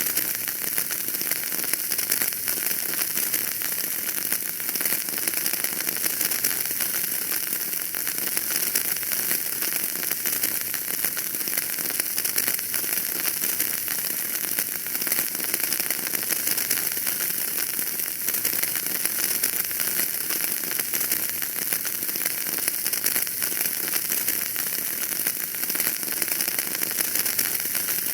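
Wood fire crackling in a fireplace: a dense, steady stream of small pops and crackles over a hiss.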